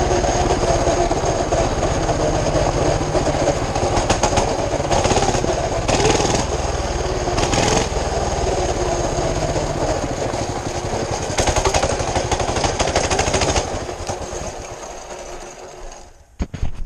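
Mini bike's small engine running loudly with a rapid pulse, then slowing and dying out about fourteen seconds in, followed by a few clicks. It is an engine that won't stay running.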